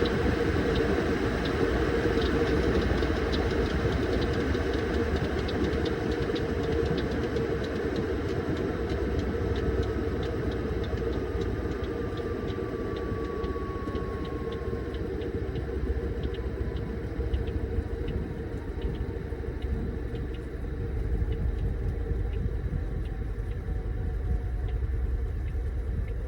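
Washing machine running a wash cycle: a steady low rumble and motor hum, with a fast light ticking that fades about halfway through and a faint whine that slowly falls in pitch.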